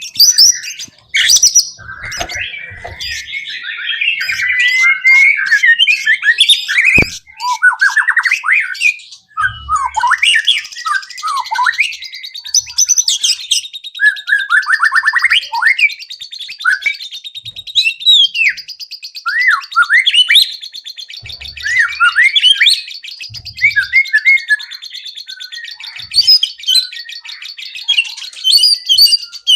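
White-rumped shama singing a long, varied song of rapid whistled phrases, trills and chirps, running through its repertoire of learned phrases.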